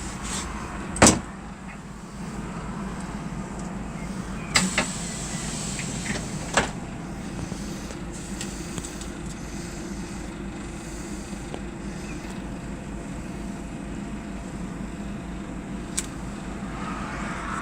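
Scania K 320 bus's diesel engine running steadily, with a sharp knock about a second in and a few softer clicks and a faint hiss around five to six seconds in.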